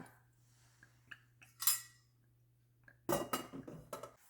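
Kitchen cookware and utensils clinking and knocking as cooking oil is put into the pan: a few light clicks, a short scrape a little before halfway, and a louder run of clatter near the end.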